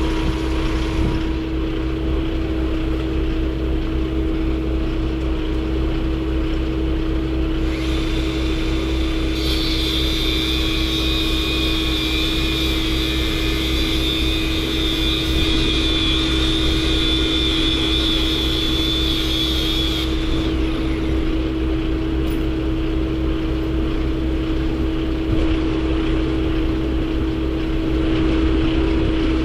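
An engine running steadily with a constant hum; a higher whine joins from about ten seconds in and drops away about ten seconds later.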